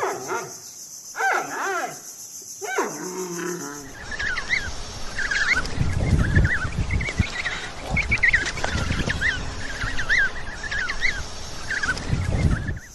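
A few drawn-out pitched animal calls over a steady high hiss. About four seconds in the sound changes abruptly to a flock of birds calling busily, with many short chirps and some low rumbling underneath.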